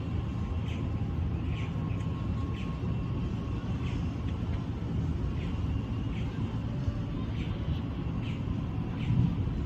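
Steady low rumble of road traffic, with a bird repeating a short high chirp about once a second.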